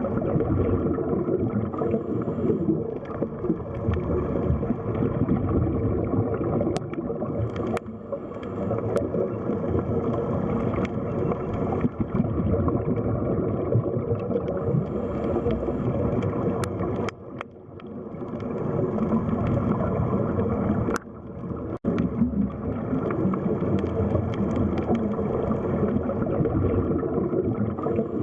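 Underwater sea ambience: continuous muffled sloshing and gurgling of water, with two brief drops in level in the later part.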